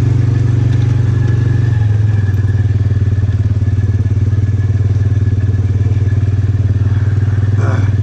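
Polaris utility vehicle's engine running steadily at low speed while driving, with a faint high steady whine over the engine note.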